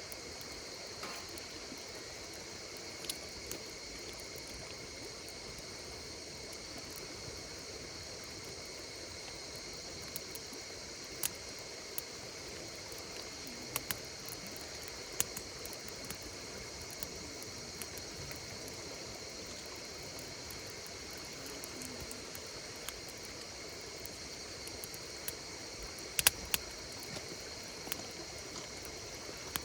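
Insects chirring in a steady, high, even chorus, over a campfire whose burning wood crackles and pops in scattered sharp clicks, with a cluster of louder pops near the end.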